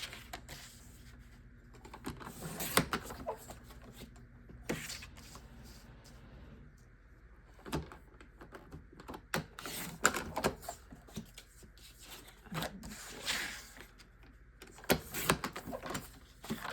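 Cardstock being cut on a paper trimmer: several short sliding swishes of the blade along the rail, with scattered clicks and rustles as sheets are positioned.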